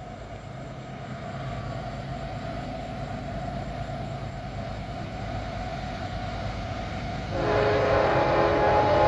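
CSX freight train's diesel locomotives approaching at about 70 mph, their low rumble growing louder, then the locomotive horn sounding a loud chord of several notes about seven seconds in.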